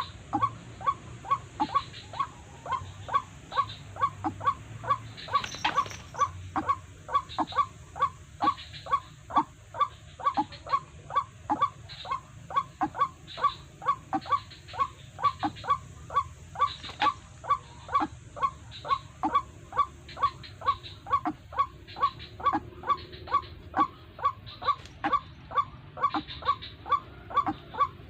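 White-breasted waterhen (ruak-ruak) calling, short croaking notes repeated evenly at about three a second.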